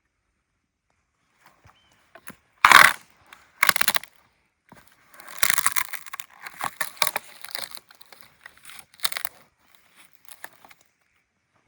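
Dry twigs, sticks and leaf litter cracking and crunching: two sharp snaps, then several seconds of dense crunching and crackling.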